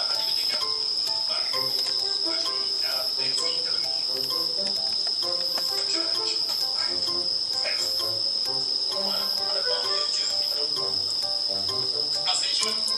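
Insects trilling steadily in one continuous high-pitched tone, with quiet music underneath.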